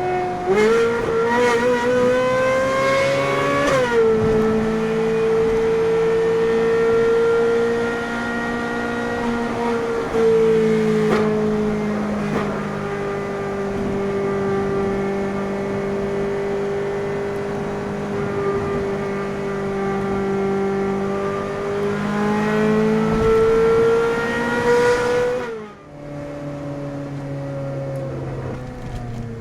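Ferrari 458 Spider's V8 engine heard on a drive: revs climb for a few seconds, then drop at a gear change about four seconds in. The engine holds a steady cruise, climbs again near the end, and its note falls away suddenly as the revs drop.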